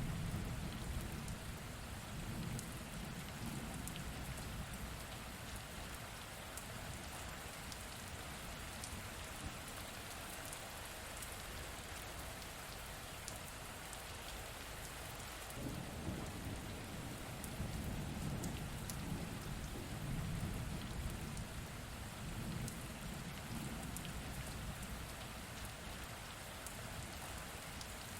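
Steady rain falling on a surface, with individual drops heard through it, and low thunder rumbling at the start and again from about halfway through, for several seconds.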